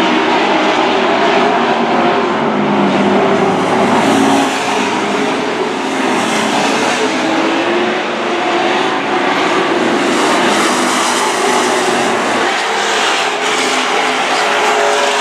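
Several dirt-track super trucks racing, their engines running hard together with overlapping pitches that rise and fall as they go around the oval.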